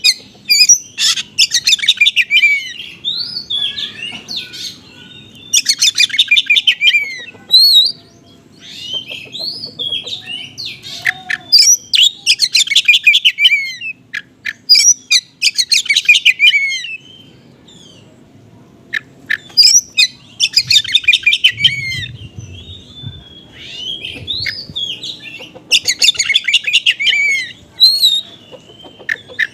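Oriental magpie-robin singing in the fast 'konslet' style: loud bouts of rapid trills and chattering, sweeping notes, five or six times with short pauses between. A lure recording, used to prompt a pet magpie-robin to answer.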